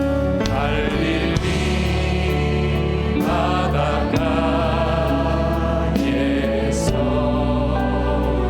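Contemporary worship band playing a hymn, with sung vocals over keyboards, bass, electric guitar and drums with cymbal hits.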